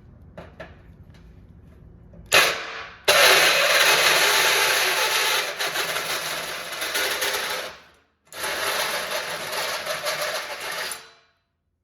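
Power-tool metalwork on a steel ATV frame. After a couple of seconds of faint clicks there is a short loud burst, then two long loud runs of several seconds each with a brief break between them, stopping suddenly near the end.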